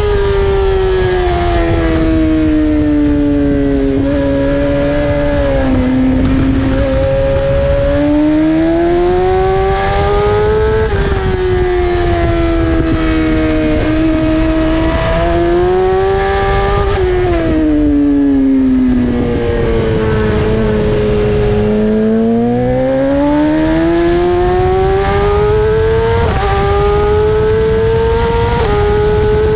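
BMW S1000RR's inline-four engine at full race pace, its pitch climbing and falling repeatedly as it accelerates and brakes, with sudden steps in pitch at the gear changes. About two-thirds of the way through the pitch sinks steadily for several seconds while it slows for a corner, then climbs again.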